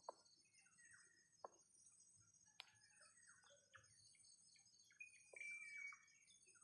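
Faint scattered bird chirps and short calls, with one longer call about five seconds in, a few sharp clicks, and a steady high-pitched hum.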